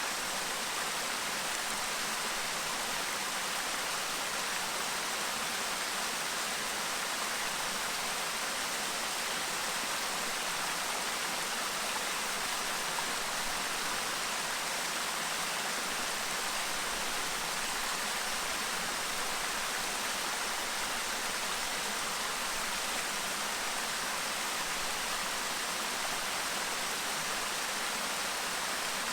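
Clear mountain stream babbling over rocks: a steady, even rush of water.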